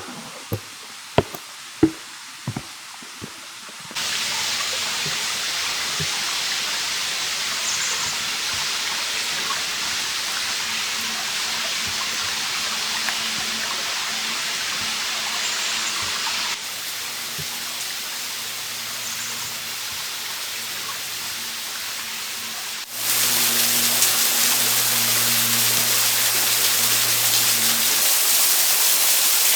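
Rushing water of a waterfall, a steady hiss that changes level abruptly twice. A few sharp clicks come before it starts, about four seconds in.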